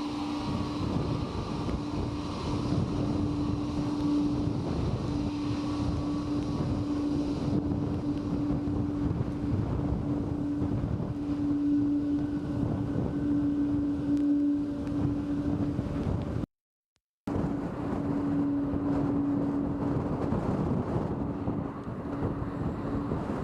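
Strong typhoon wind buffeting the microphone in a dense rumble, with a steady droning hum underneath that swells and fades. The sound cuts out completely for under a second about two-thirds of the way through.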